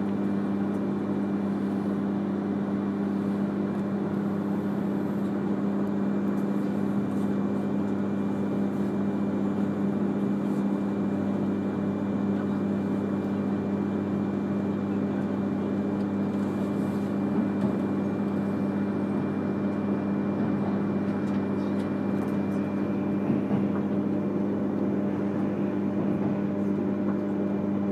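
E3 series Shinkansen train running at a steady speed, heard from inside the passenger cabin: a constant hum with several low steady tones and a faint high tone over even running noise.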